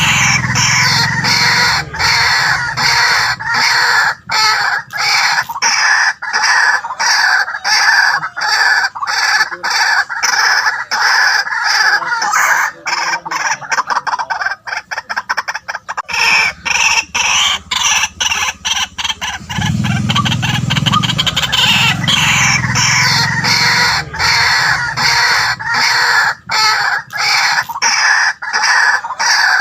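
White-breasted waterhen calling in a long, rapid series of loud, repeated croaking notes, with a deeper part near the start and again about two-thirds of the way through.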